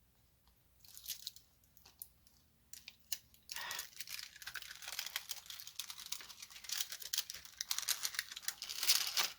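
Plastic cover film of a diamond painting canvas crinkling and crackling as it is handled and peeled back: a few scattered crackles at first, then a dense run of crackling from about three and a half seconds in.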